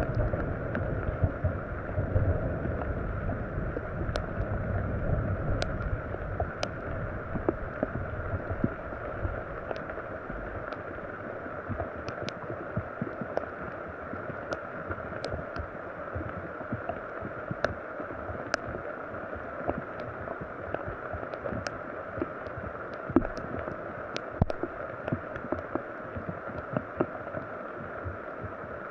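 Steady rain falling, with scattered drops ticking sharply on nearby surfaces. A low rumble at the start fades away over the first few seconds.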